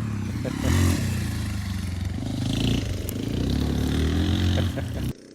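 Motorcycle engine running under changing throttle, its pitch rising and falling several times, starting and stopping abruptly.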